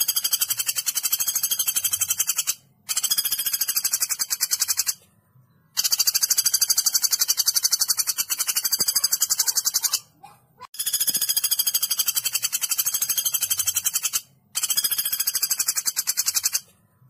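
Recorded woodpecker calls: five bouts of rapid, high-pitched rattling trill, each two to four seconds long, with short breaks between them.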